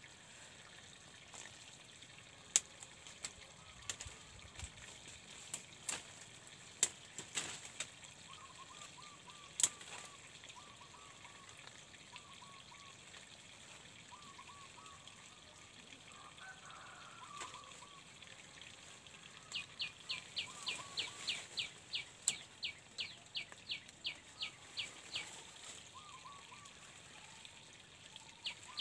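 Bird calls: faint chirping midway, then from about two-thirds in a bird repeats a quick falling chirp about three times a second. Scattered sharp clicks and snaps, like twigs and dry leaves, come in the first part.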